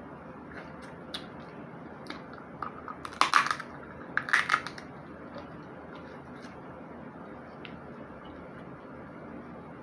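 Snow crab shell being cracked by hand: scattered small clicks, then two loud bursts of cracking and snapping about three and four and a half seconds in.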